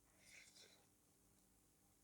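Near silence, broken about half a second in by one brief, faint mouth sound of chewing food.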